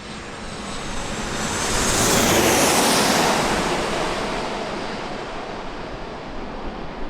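Jet airliner passing close by: its engine roar swells to a peak a couple of seconds in and then slowly fades, with a high whine falling in pitch as it goes past.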